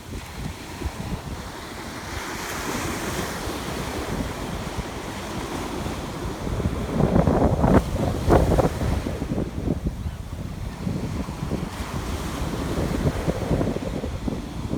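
Ocean surf washing onto a beach, with wind buffeting the microphone as a gusty low rumble. A wave's hiss swells a couple of seconds in, and a louder surge of breaking water and gusts comes about halfway through.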